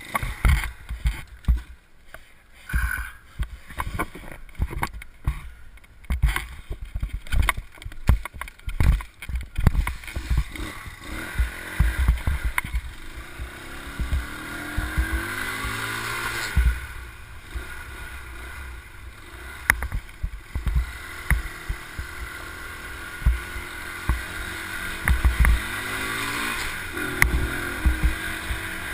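A motorbike engine running on the move, revving up and down twice in the second half, under irregular gusts of wind buffeting the microphone.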